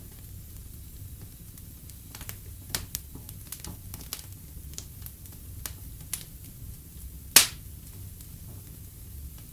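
Fire crackling in a fireplace: scattered sharp pops and snaps over a steady low rumble of the flames, with one loud pop about seven seconds in.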